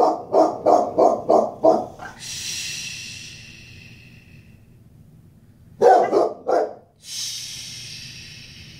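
Boxer dog alarm-barking in quick runs, about three deep barks a second: about six in the first two seconds, then three more around six seconds in. It is warning barking at a knock on the door heard from the television.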